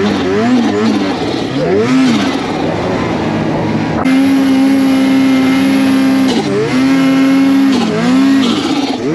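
Snowmobile engine revving up and down on the throttle several times. About four seconds in it holds steady at high revs for about two seconds, then drops and climbs again in short pulls near the end.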